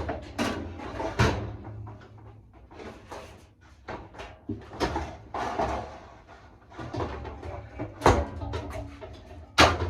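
Knocks and clatter of tumble dryer parts being handled while the drum belt is fitted: irregular handling noises with a few sharp bangs, the loudest near the end.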